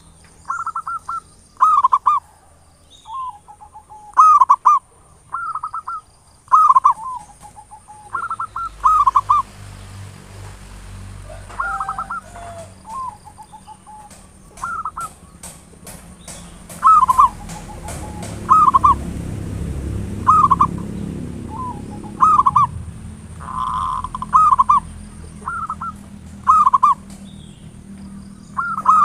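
Zebra dove (perkutut) cooing: short coo phrases repeated every second or two, with a low rumble underneath through the middle stretch.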